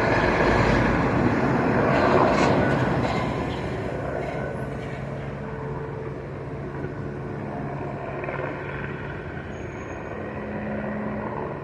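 Police helicopter flying, a steady rotor and engine drone that is loudest in the first few seconds and then fades to a lower, even level as it draws away.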